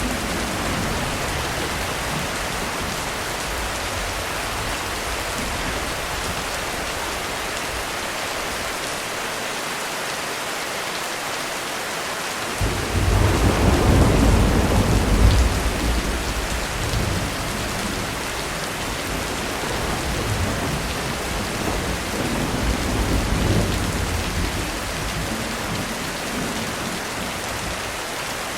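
Steady heavy rain falling on a roof, with a roll of thunder that breaks in suddenly about halfway through, rumbles loudest for a few seconds and then fades slowly with smaller swells.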